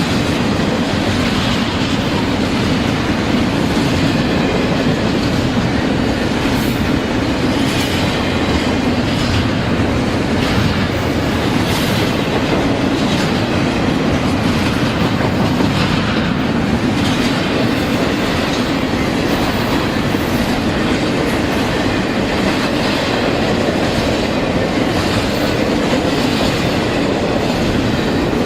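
Train cars rolling past, a continuous steady noise of steel wheels on rail with clicks as the wheels cross rail joints.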